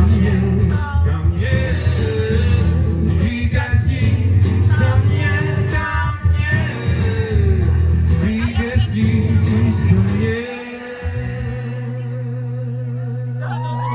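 Live acoustic band playing the end of a song, a male voice singing over guitar and bass; about ten seconds in the band settles onto a long held final chord.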